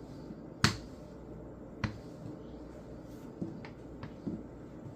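Several sharp knocks and taps while dough is being worked: a loud one about half a second in, another near two seconds, then a few fainter taps.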